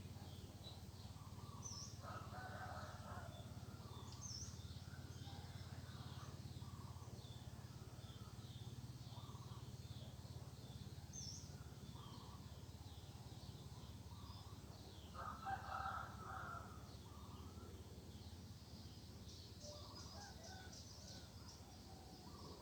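Faint early-morning rural birdsong: many small birds chirping, with a rooster crowing twice, about two seconds in and again louder around fifteen seconds, over a steady low hum.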